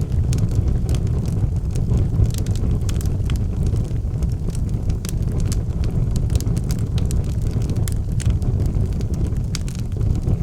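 Wood fire burning in a fireplace: a steady low rumble of flames with frequent sharp crackles and pops of the burning logs.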